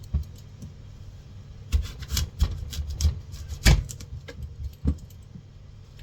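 Knife cutting fruit on a cutting board: irregular knocks and taps, one near the start and then a quick cluster from about two seconds in until about five seconds in.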